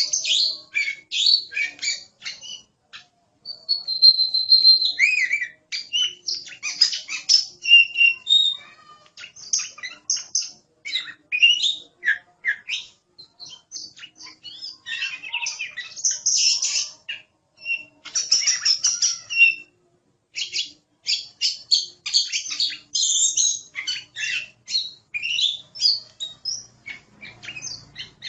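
Oriental magpie-robin (kacer) in full song: rapid, varied runs of chirps, trills and whistles, with one longer held whistle about four seconds in and a few brief pauses between phrases.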